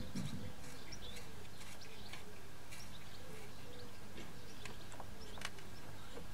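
Faint bird chirps over a steady background hiss, with a few light clicks from handling parts, one sharper click near the end.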